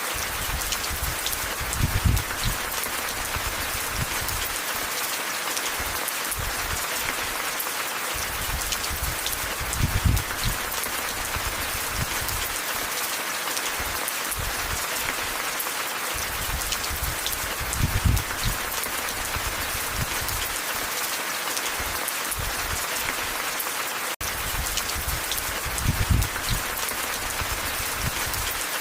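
Steady rain falling, an even hiss, with a short low thud about every eight seconds.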